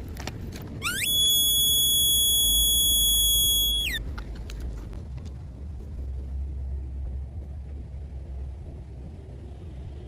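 A high, steady whistling tone that glides up about a second in, holds for about three seconds, then glides down and cuts off, over a steady low rumble.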